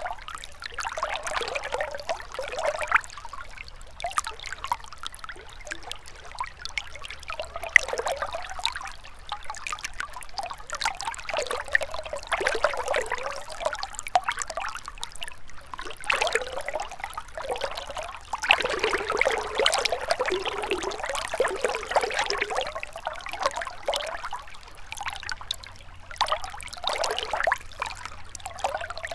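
Shallow river water trickling and gurgling over stones, a continuous burbling that swells and ebbs unevenly, with small splashes throughout.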